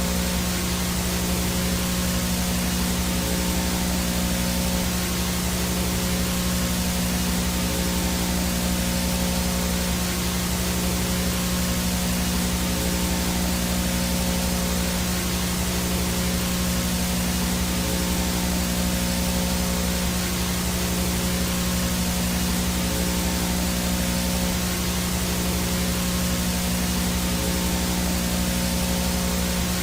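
VHS static: steady hissing white noise from a no-signal analog video picture, with a steady low electrical hum and a faint high whine under it.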